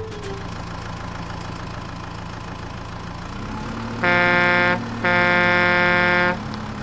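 Cartoon vehicle engine sound effect running steadily, joined about four seconds in by two loud horn honks, a short one and then a longer one.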